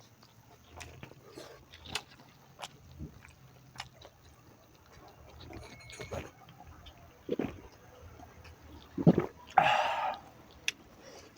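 Close mouth sounds of a person eating pork: chewing with scattered wet smacks and clicks. A louder rush of breath or slurp comes near the end.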